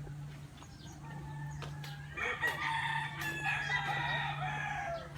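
A rooster crowing: one long crow of nearly three seconds, starting about two seconds in, over a steady low hum.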